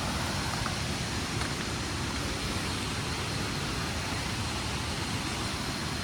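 Steady rush of falling water, an even noise with no breaks, with a faint thin high tone held above it.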